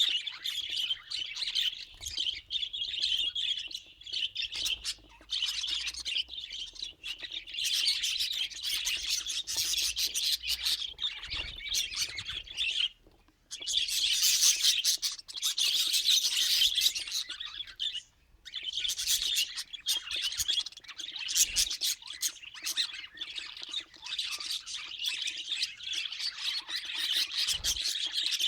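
Budgerigars chattering and warbling continuously, rapid chirps and squawks, with two short pauses partway through.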